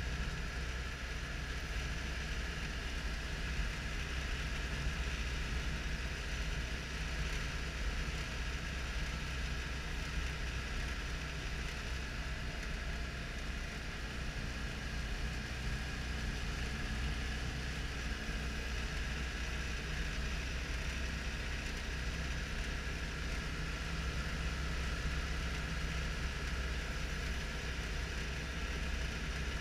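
Citroën Dyane 6's air-cooled 602 cc flat-twin engine running steadily while driving, heard from inside the cabin, with even road noise over it.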